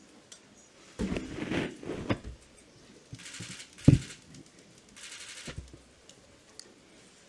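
Paper rustling and handling noises, in several short spells, with one sharp knock about four seconds in that is the loudest sound.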